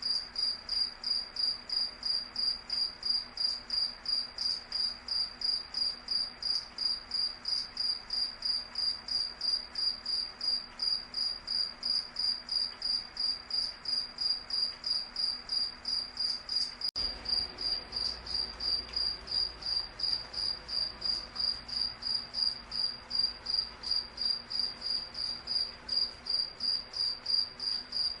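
Cricket chirping steadily, a high-pitched chirp repeating evenly about three times a second.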